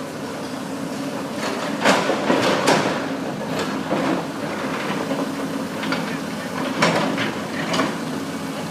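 A steady low hum with a series of sharp knocks or bangs: three close together about two seconds in, and two more near the end.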